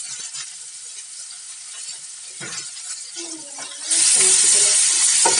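Chopped onion, garlic and green chilli sizzling in hot mustard oil with mustard seeds, stirred with a wooden spatula. The sizzle gets much louder about four seconds in as the vegetables are stirred through the oil.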